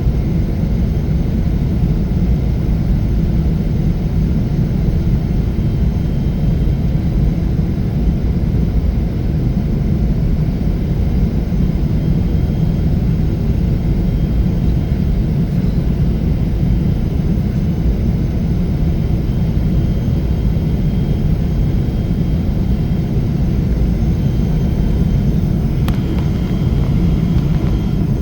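Steady, even rumble of jet engines and airflow heard inside the cabin of a Boeing 777-300 airliner in flight.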